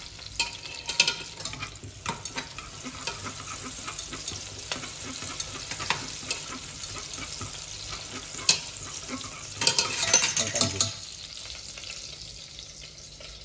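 Scallions frying in hot fat in a small saucepan, sizzling steadily while chopsticks stir them and click against the pan: the start of making scallion oil. The sizzling and clatter get louder about ten seconds in, then die down to a faint sizzle near the end.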